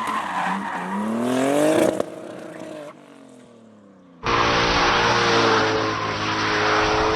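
Drift car engine revving, its pitch rising for about two seconds, then dropping and fading away. About four seconds in the sound cuts abruptly to a steady drone of several held tones.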